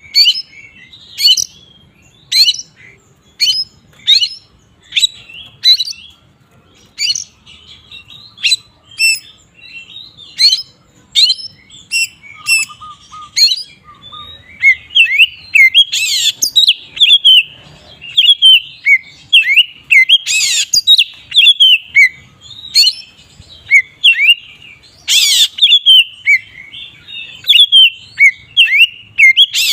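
Oriental magpie-robin singing loudly in the full, open 'ngeplong' style that keepers play to provoke rival males. It starts as sharp whistled notes about one a second, then about halfway turns into a fast, unbroken run of varied whistles and chatter, broken by a few louder, noisier notes.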